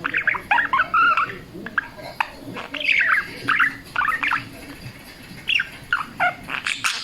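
Budgerigar warbling: a fast, unbroken run of short chirps and chattering notes.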